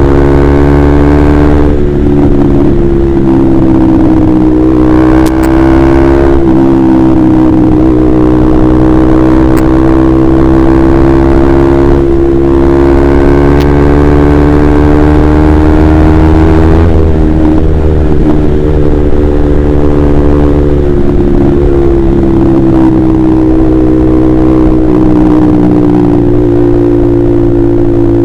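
Honda CBR150R's single-cylinder engine running through a KJ Pro Performance aftermarket exhaust while riding. The engine note holds nearly steady, with brief breaks and small shifts in pitch every few seconds.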